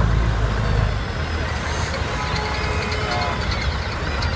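Truck engine running with a steady low rumble, amid street noise.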